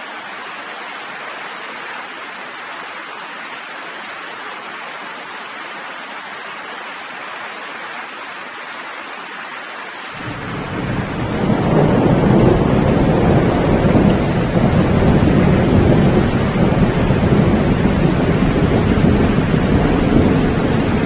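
Steady rain hissing. About halfway through, a long, loud, deep rumble of thunder rolls in and keeps going.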